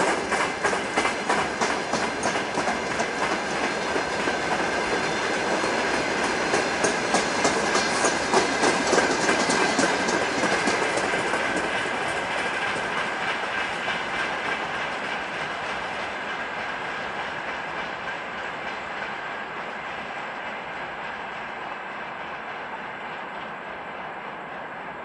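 Broad-gauge freight wagons rolling past, their wheels clacking over the rail joints in a quick, even rhythm with a steady high ring. After about ten seconds the last wagon is by, and the train's sound fades steadily as it moves away.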